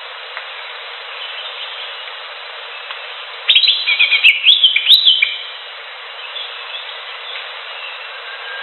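Cucak hijau (greater green leafbird) singing: a loud burst of quick, sliding whistled phrases about halfway through, with fainter chirps before and after over a steady background hiss.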